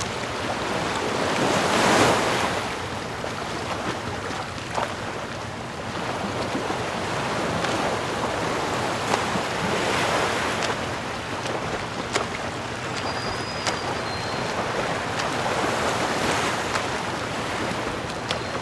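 Ocean surf washing in, over a steady wash of water, swelling three times as waves break, with a few faint ticks.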